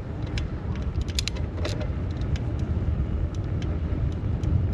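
Road traffic and a steady low rumble heard from a moving bicycle, with a few sharp metallic clicks and rattles in the first two seconds.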